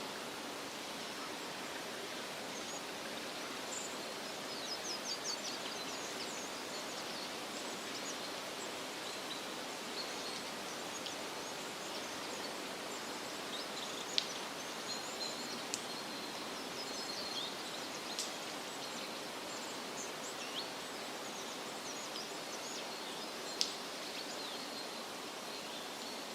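Steady rustle of wind through leafy trees, with scattered high, short bird chirps over it: a quick run of chirps about five seconds in and more off and on later.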